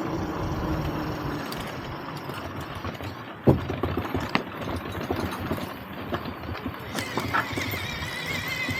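A vehicle jolting over rough ground off-road: irregular knocks and rattles, with one sharp bang about three and a half seconds in. A wavering whine starts near the end.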